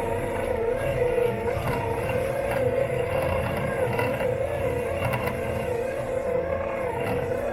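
Robot lawn mower's motors running, heard through its body: a steady whining hum that wavers up and down in pitch about twice a second, over a low rumble.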